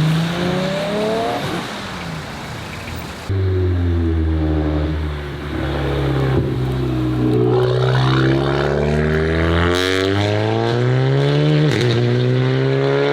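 Volkswagen car engines accelerating hard, the revs climbing and dropping back at gear changes. About three seconds in the sound jumps abruptly to another car pulling away with rising revs.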